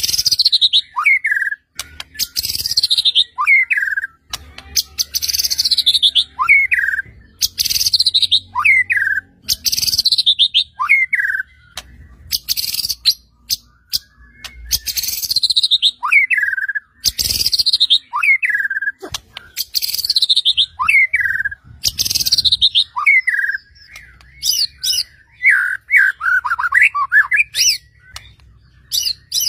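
White-rumped shama (murai batu) singing: the same short phrase repeated about every two seconds, a fast falling trill ending in a downward-slurred whistle. Near the end it switches to a quicker run of varied notes.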